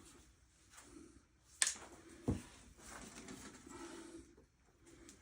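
Hands working PEX pipe and expansion rings: a sharp click about a second and a half in, a dull knock just after, then rustling and scraping.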